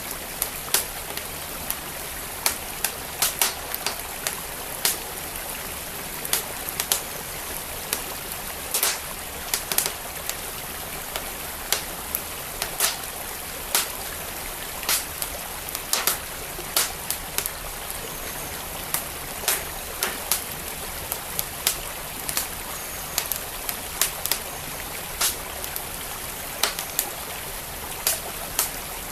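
Wood fire crackling, with sharp irregular pops and snaps a few times a second, over the steady rush of a flowing stream.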